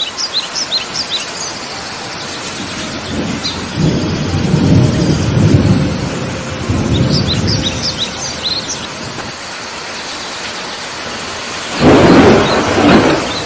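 Steady heavy rain with thunder: a low rolling rumble from about four to eight seconds in, then a louder, sharper thunderclap near the end. Birds chirp briefly at the start and again about seven seconds in.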